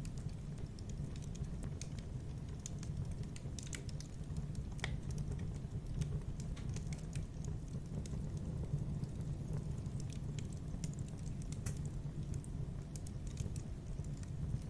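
Fire crackling in a fireplace: irregular sharp pops and ticks over a steady low rumble of the burning fire, with one sharper pop about five seconds in.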